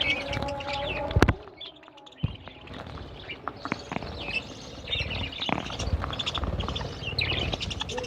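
A flock of budgerigars chattering, with many short overlapping chirps. A single sharp knock comes about a second in, followed by a brief lull before the chirping picks up again.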